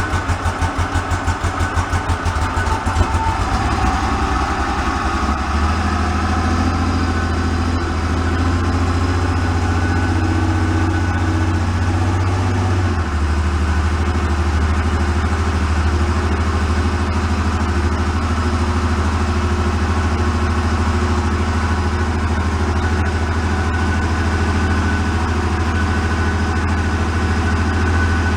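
A 1975 Porsche 911's air-cooled flat-six just after starting, running unevenly for the first few seconds, then settling into a steady idle. The idle speed drops a little about halfway through.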